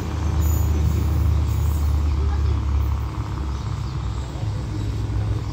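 Low, steady rumble of a diesel-hauled express train down the line, weakening about three seconds in.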